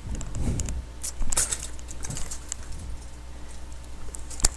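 Scattered clicks and rustles of objects being handled, over a steady low hum.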